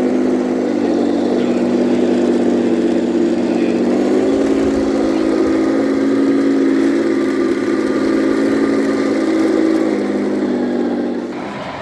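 Scale RC truck's engine sound, most likely from an electronic sound unit, running steadily. Its pitch steps up about four seconds in, drops back near ten seconds, and fades out just before the end.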